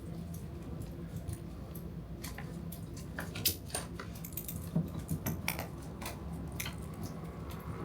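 Scattered light metal clicks and clinks of hand tools and drain fittings being worked at a generator's oil drain, with a small cluster around the middle, over a steady low hum.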